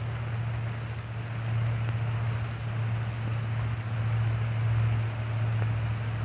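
Steady low hum with an even hiss of rain falling over it.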